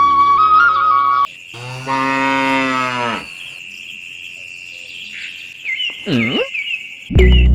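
A cow mooing once, a single call about a second and a half long that drops in pitch as it ends.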